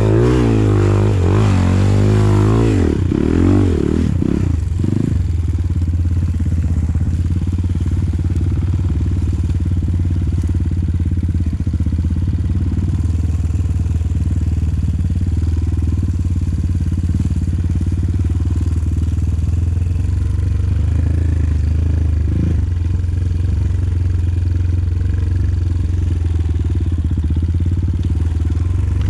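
Enduro dirt bike engine revving, its pitch rising and falling over the first few seconds, then running at a steady speed.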